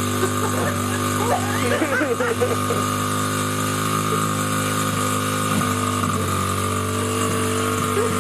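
Small petrol engine of a child's motorbike idling steadily.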